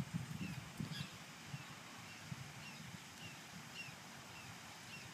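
Quiet open-air ambience with a bird calling over and over, a short falling chirp about once or twice a second.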